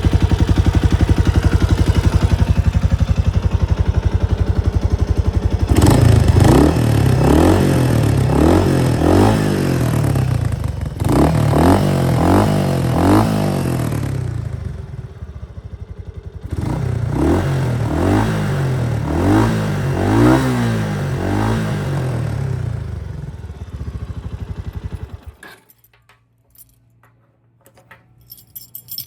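Kawasaki Estrella RS's 250 cc air-cooled single-cylinder engine idling, then revved in repeated throttle blips in two runs, each rise and fall of pitch clearly heard, before settling back to idle and being switched off about 25 seconds in. A few light metallic clinks follow near the end.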